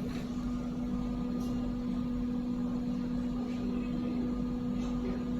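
Steady mechanical hum with a constant low tone over a rumble, and a few faint clicks.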